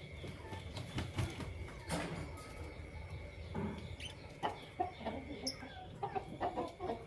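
Birds calling in short, scattered low notes and clicks, clucking-like rather than shrill chirping, over a faint steady high tone.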